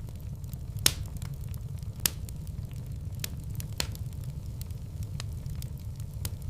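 Wood fire in a fireplace crackling: scattered sharp pops over a steady low rumble, with two louder pops about one and two seconds in.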